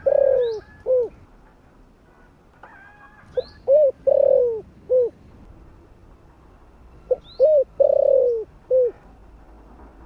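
Spotted dove cooing in its repeated phrase of a few short coos around one longer, falling coo. A phrase ends at the start, and two full phrases follow about three and a half seconds apart.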